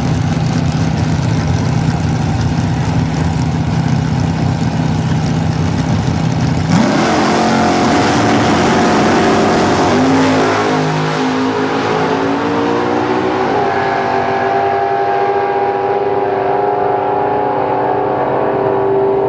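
Holden VL Calais drag car's V8 idling steadily, then about seven seconds in it revs up and the car accelerates hard, the engine note climbing in steps.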